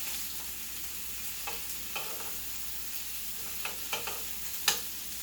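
Steady sizzle of food frying on a hot griddle, with a few light clicks and knocks scattered through, the sharpest near the end.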